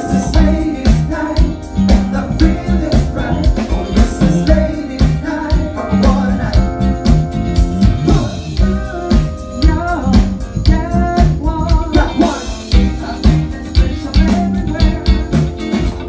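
Band music with a singing voice, guitar and a steady drum beat over a bass line.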